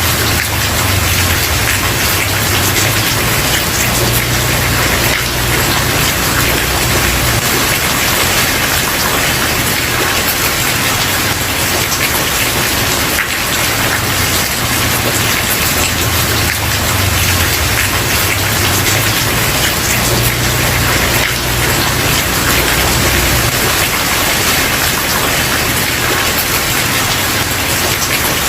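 Steady heavy rain falling on a wooden porch, an even dense patter with a low rumble underneath that swells and fades every few seconds.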